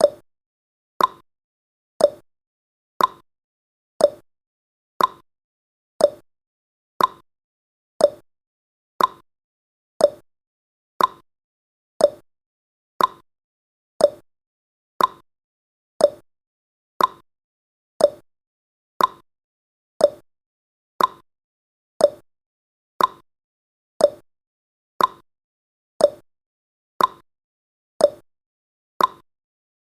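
Countdown timer's clock-tick sound effect, one sharp tick every second, alternating a higher and a lower tick in a tick-tock pattern.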